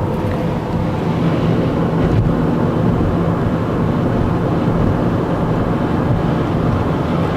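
Steady car driving noise: engine and road rumble, heard from inside the vehicle.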